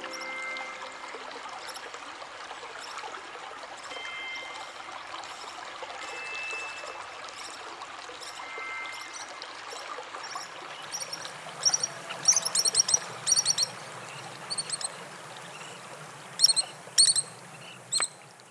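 Pied kingfisher calling: from about ten seconds in, clusters of sharp, high chirps in quick runs, over a steady rushing background.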